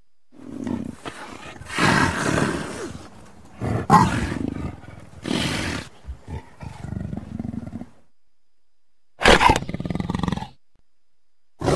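Lion roars and growls from a film soundtrack: a string of rough roaring growls follows one after another for about seven seconds, then after a pause comes one short roar, and another starts at the very end.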